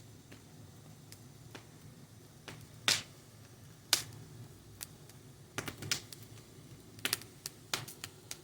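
Fire crackling: irregular sharp pops and snaps over a low steady rumble, the two loudest pops about three and four seconds in, then a quicker run of smaller snaps.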